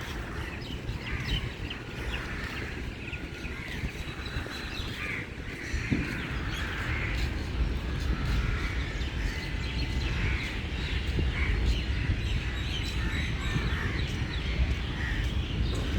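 Birds calling, many short calls overlapping one another, over a steady low rumble.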